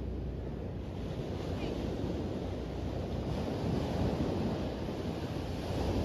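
Ocean waves washing onto a beach: a steady surf rush that swells about four seconds in, with low wind rumble on the microphone.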